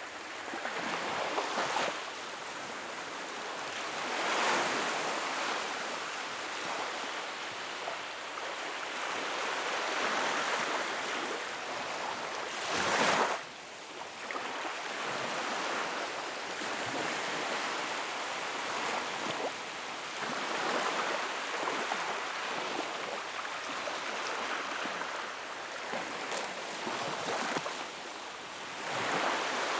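Sea waves breaking and washing in, swelling and fading every few seconds. A louder wave about 13 seconds in cuts off suddenly.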